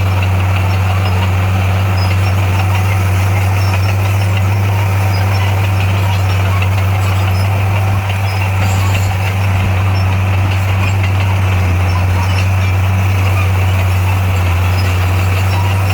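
Bulldozer's diesel engine running at a steady speed with a deep, even hum.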